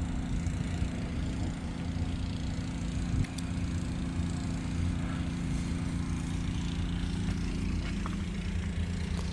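An engine idling steadily: a low, even drone.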